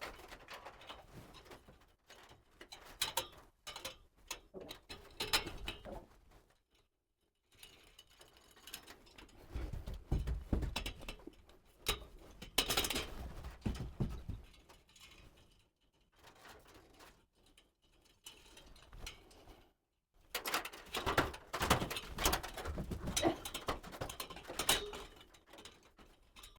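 Irregular knocks, taps and scraping of hands-on carpentry work on a suspended ceiling, with several short stretches broken by brief silent gaps.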